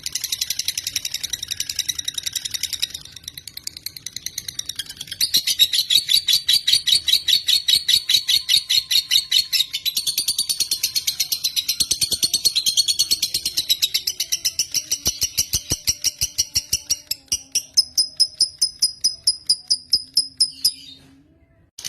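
Lovebird (Agapornis) singing a long, unbroken chattering trill: a fast run of high, evenly repeated notes that shifts in pitch as it goes. It grows louder about five seconds in and breaks off briefly just before the end.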